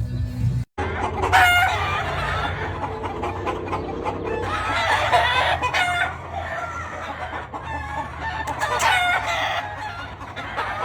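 Sahuayo Sweater gamefowl roosters crowing several times, with clucking between the crows.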